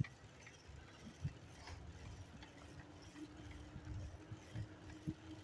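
Faint ticking of a bicycle's freewheel ratchet while coasting, with low rumble; a thin steady hum joins a little over two seconds in.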